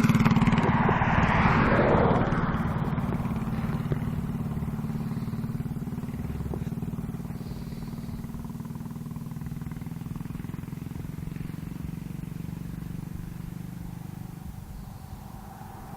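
Mini bike with a junior race engine running at speed, loud at first, then fading steadily as it moves away into the distance.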